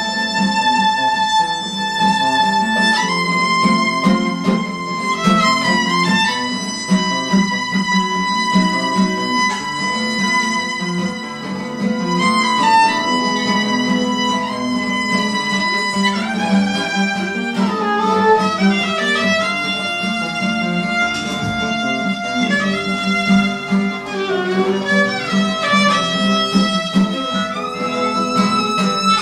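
Live instrumental music: a solo melody instrument playing long held notes with vibrato and gliding slides between notes, over a steady accompaniment.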